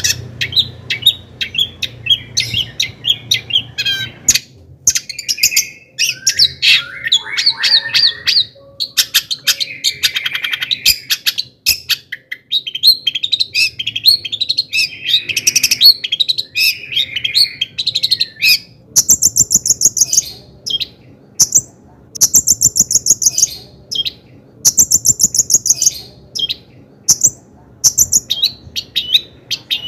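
Long-tailed shrike in full song: a rapid, varied run of chirps, trills and warbled notes. Past the middle it switches to a high phrase repeated several times with short pauses between.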